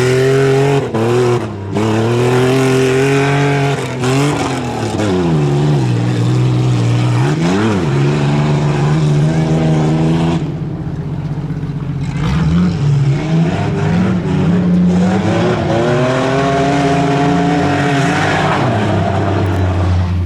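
A tuff truck's engine revving hard, its pitch climbing and dropping again and again as the throttle is worked over the course, with a steadier stretch about halfway through.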